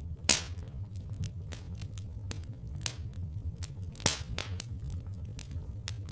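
Wood fire crackling: irregular sharp snaps and pops, two louder pops about a third of a second in and about four seconds in, over a steady low rumble.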